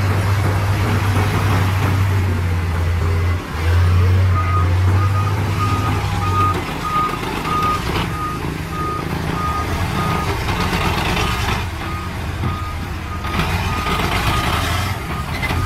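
A heavy machine's diesel engine running with a deep hum. From about four seconds in, its reversing alarm beeps steadily, about twice a second.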